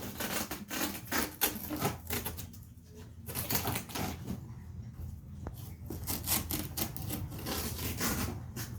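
Adhesive tape being pulled off its roll and pressed onto cardboard, in three stretches of rapid crackling.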